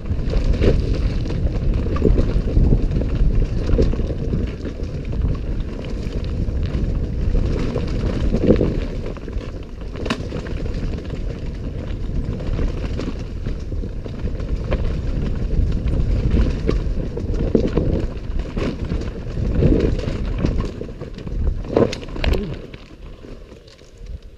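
Enduro motorcycle engine running and revving unevenly on a rough forest trail, with wind buffeting the onboard microphone. Sharp knocks from the bike going over rough ground come through several times.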